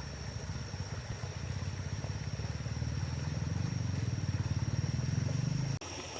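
A small engine running with a steady low putter, growing a little louder, then cutting off abruptly about a second before the end.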